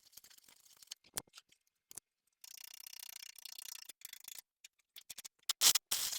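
Short welds on a steel truck frame: clicks, then about two seconds of high-pitched arc crackle, then two loud, short bursts near the end.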